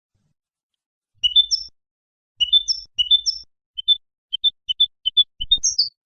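European goldfinch singing: three quick twittering phrases of high chirps starting about a second in, then a run of separate short notes.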